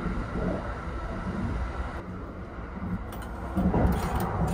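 Steady low running rumble of a Kintetsu Hinotori limited-express train, heard from inside the car. About three and a half seconds in, a louder rustling scrape as a fabric curtain is drawn along its rail.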